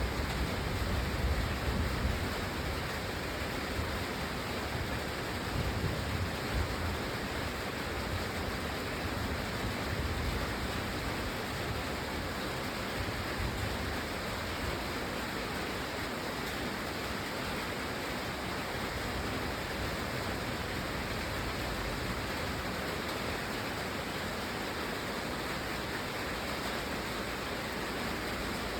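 Steady rain falling, an even, unbroken hiss, with low rumbling swells during the first half.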